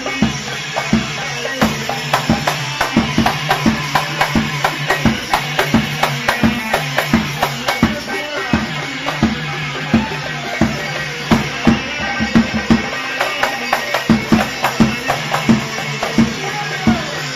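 Band music in an instrumental passage, without singing: a fast, dense drum beat over a sustained melody and bass line.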